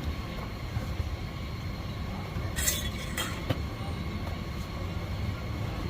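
Steady low rumble with a faint steady hum, broken a little before the middle by two short, harsh hissing scrapes and a sharp click.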